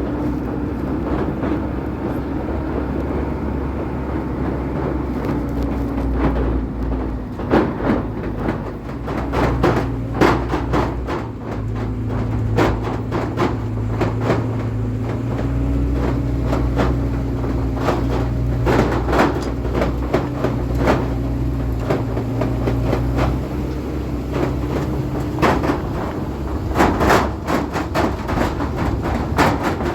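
A vehicle running steadily on the move, a low engine drone under frequent rattles and knocks.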